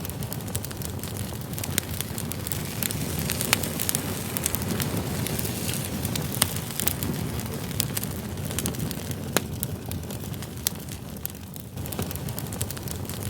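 Wood campfire burning: a steady low rush of flames with frequent sharp crackles and pops from the burning logs.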